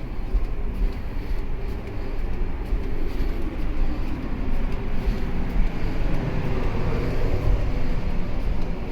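Steady low rumble with a hiss over it: a large car ferry under way, heard on board.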